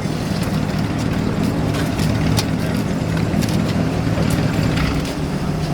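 A car engine running at low revs, a steady low rumble, with a few faint clicks over it.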